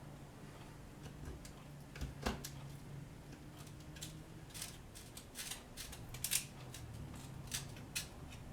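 Scattered light clicks and short scrapes of hand tools and small parts being handled, coming more often after about four seconds, over a low steady hum.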